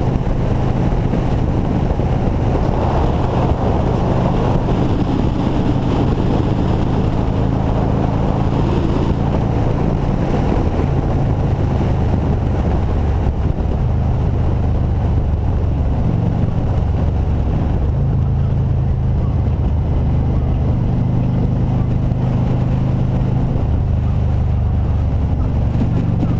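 Motorcycle engine running at highway cruising speed with a steady low drone that shifts in pitch a few times as the throttle changes, heard from on the bike with wind rushing over the microphone.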